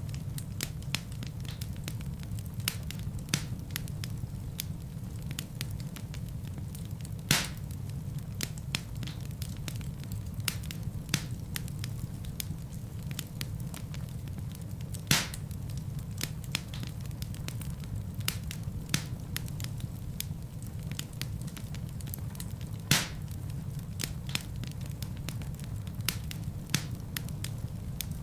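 Wood fire burning in a fireplace: a steady low rumble of flame with constant irregular crackling, and a few louder pops from the logs, about every eight seconds.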